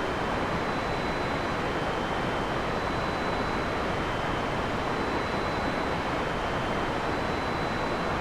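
Heavy rain falling steadily, an even hiss with no thunder or other sudden sounds, and a faint steady high tone above it.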